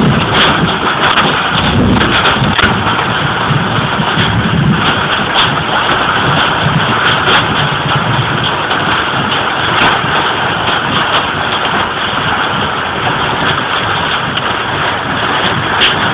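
Heavy storm rain pounding on a car's roof and windshield, a loud, steady dense hiss with scattered sharp clicks of hitting drops or hailstones.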